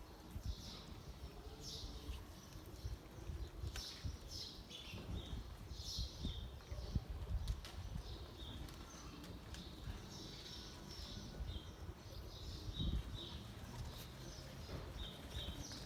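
Small birds chirping in short, repeated calls over a low, steady outdoor rumble, with a few sharp clicks.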